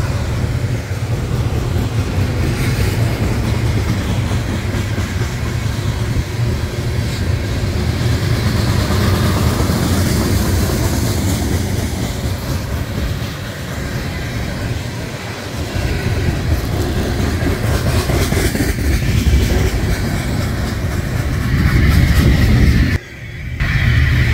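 A freight train's autorack and tank cars rolling past, their steel wheels rumbling and clacking on the rails in a steady run. The sound drops out briefly about a second before the end.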